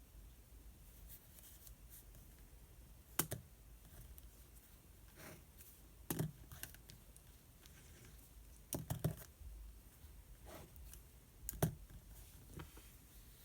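Desk study sounds: a handful of sharp taps and clicks, with a quick cluster just before the middle, over faint room tone, as pen and paper are handled and set down.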